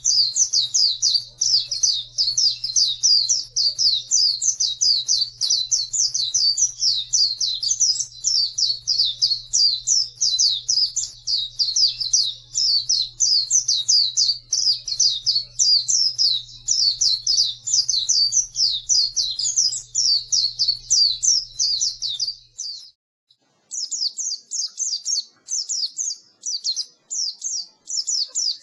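Pleci (white-eye) singing a fast, unbroken twittering song of high chirps. A faint low hum lies under it until about four-fifths of the way through, where the song breaks off briefly and resumes without the hum.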